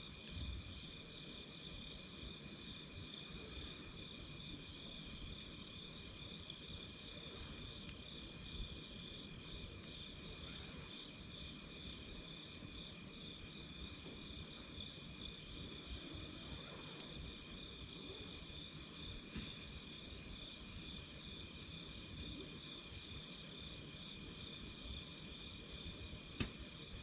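Campfire crackling softly, with one sharp pop near the end, under a steady insect chorus that trills at a constant high pitch.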